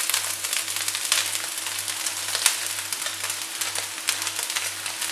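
Egg, vegetables and fried chicken sizzling over high heat in a nonstick wok as cooked basmati rice is tipped in, with scattered crackles through a steady hiss.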